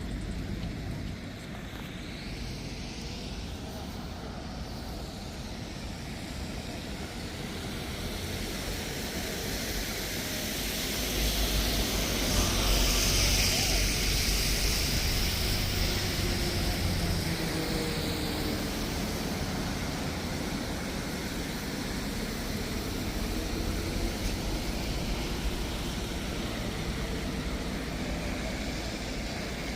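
A motor vehicle passes, building from about eight seconds in, loudest around twelve to fourteen seconds with a low rumble and hiss, then slowly fading, over steady city street noise.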